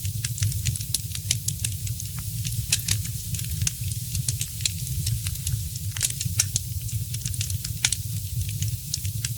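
Fireplace fire crackling: many sharp, irregular pops and snaps over a steady low rumble.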